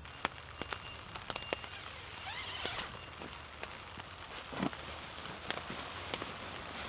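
Light rain starting to fall: scattered raindrops tapping on a tarp over a soft, slowly building patter.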